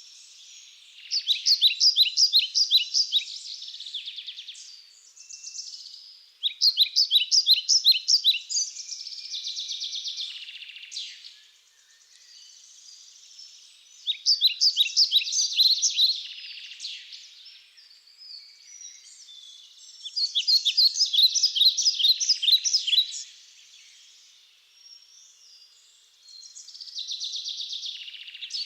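Bird song: a phrase of rapid, high chirps repeated five times, about every six seconds, each phrase ending in a short, hissing buzz.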